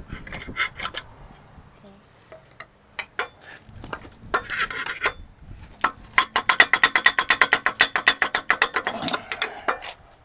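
Ratchet wrench clicking in a fast even run of about nine clicks a second for several seconds, working bolts on a Cummins engine block. Before it come scattered metal clinks and a short rattle of tools and bolts.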